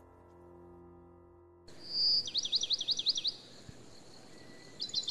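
The last held chord of a song fades away, then a songbird sings: a high whistle followed by a quick string of sweeping notes, and near the end a fast, rapid trill.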